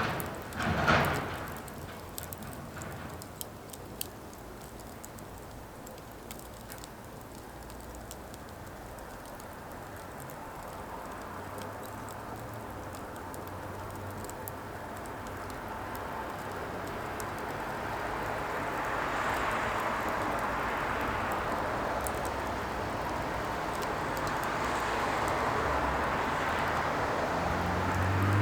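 Burning firewood crackling, with a sharp pop about a second in and scattered small snaps over a steady rushing hiss that slowly grows louder.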